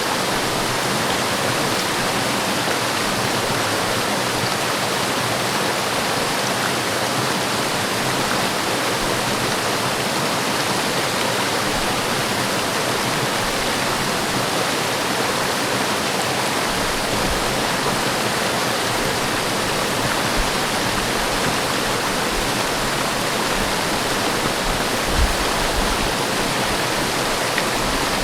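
Forest waterfall pouring steadily, a constant rush of falling water, with a couple of brief low bumps near the end.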